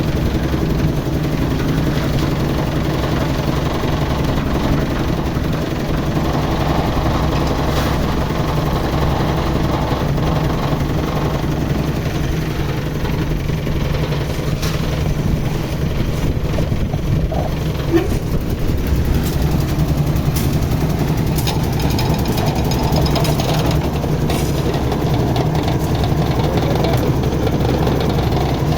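Engines of a concrete mixer machine and a concrete lift machine running steadily during a slab pour.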